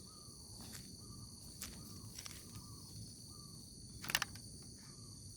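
Outdoor insect chorus, crickets chirring steadily and high-pitched, with a short call repeated about every half to one second from an animal, and scattered sharp clicks, the loudest a quick cluster about four seconds in.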